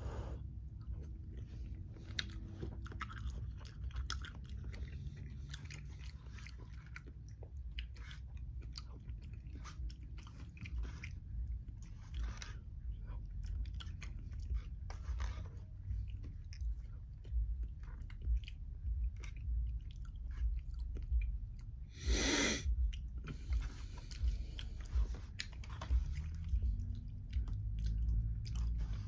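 Close-up chewing and wet mouth sounds of someone eating macaroni and cheese, with many short clicks, among them a plastic fork knocking in a plastic meal tray. About 22 seconds in comes one loud noisy rush lasting about a second.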